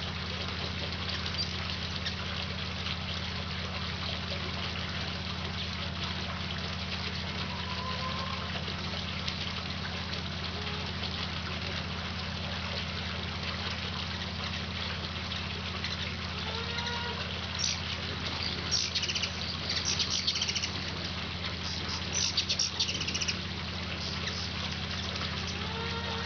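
Hummingbirds chattering in clusters of rapid, high-pitched chips as they squabble over feeding positions, mostly in the last third. Under them runs a steady low hum and hiss.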